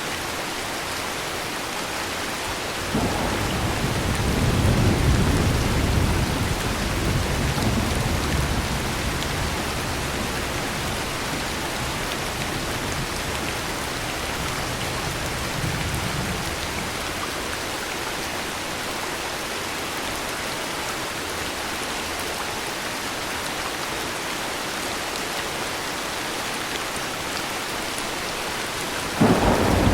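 Steady heavy rain with a rolling peal of thunder that starts about three seconds in and fades away over the next dozen seconds; a second thunderclap breaks in sharply near the end.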